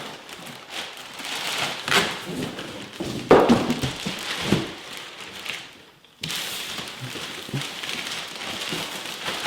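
A cardboard box and its packaging being handled and opened: rustling and crackling with a few sharp thunks and taps.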